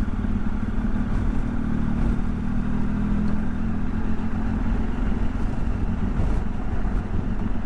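Motorcycle engine running steadily at cruising speed, heard from the rider's position with low wind and road rumble.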